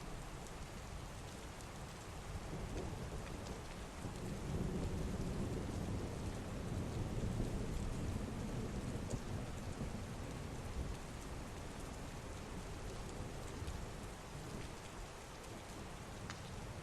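Heavy rain falling steadily, with a long low roll of thunder that swells from about four seconds in and fades away over several seconds.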